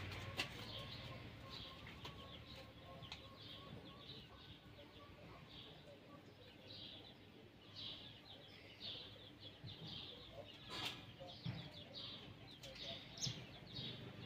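Small birds chirping faintly and repeatedly, with a couple of soft knocks in the second half.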